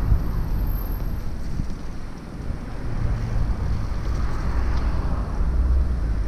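Wind rumbling on the microphone of a moving bicycle, a steady low buffeting with a faint hiss of street noise above it.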